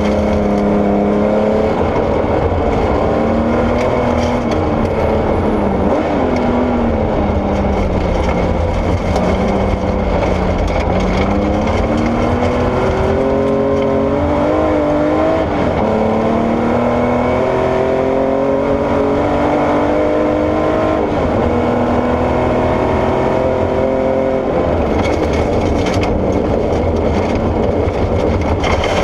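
Porsche 964 rally car's air-cooled flat-six engine being driven hard, its pitch climbing and dropping again and again as it accelerates, shifts and lifts. A steady low rumble of gravel and road noise runs underneath.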